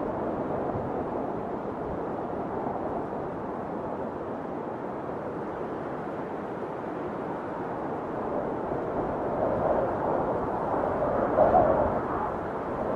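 Steady rush of water falling over a waterfall, growing a little louder about ten seconds in.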